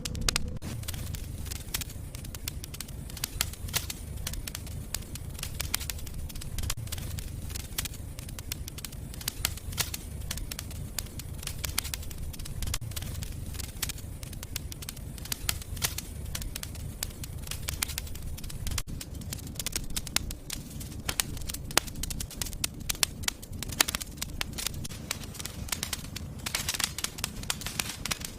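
Wood fire burning in a fireplace: frequent crackles and pops over a low, steady rumble of the flames, with a short hissing spell near the end.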